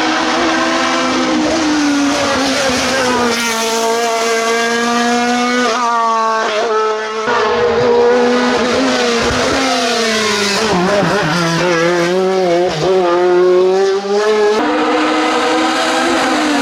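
Hillclimb race car engines at full throttle, the note climbing through the revs and dropping at gear changes, with the sound switching abruptly between runs a few times.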